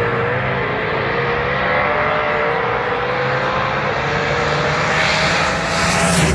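Drag-racing cars running hard: a loud, steady engine drone with a whine slowly rising in pitch, and a rushing hiss that swells near the end.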